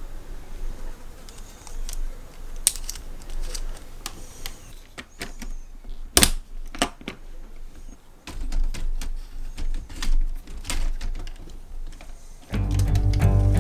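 Scattered, irregular clicks and light knocks, with guitar music starting near the end.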